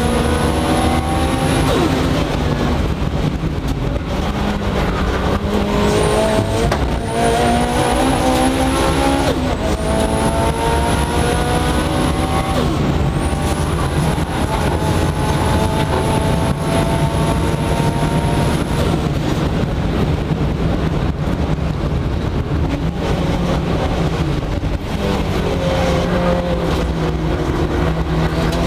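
Mitsubishi Lancer Evo 8 race car's turbocharged 2.0-litre four-cylinder, heard inside the cabin, accelerating hard through the gears. The pitch climbs in several pulls, each cut off by a gear change, with a high whine over the engine while under power. The engine then eases off for several seconds before pulling again near the end.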